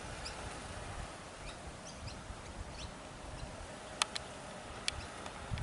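Small birds chirping now and then in short high calls over a low outdoor rumble of wind on the microphone, with two sharp clicks about four and five seconds in.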